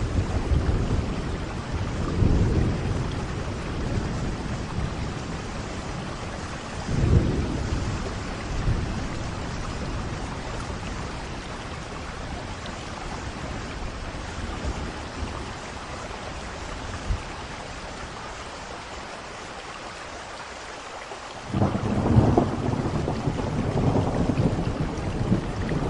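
Steady rain with thunder. Low rumbles come near the start and again about seven seconds in, then ease off to rain alone. A loud rumble of thunder sets in near the end.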